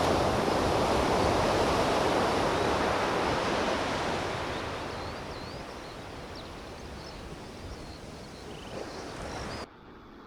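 Surf breaking and washing up the beach, loudest in the first few seconds and then fading as the wash draws back. It cuts off suddenly near the end.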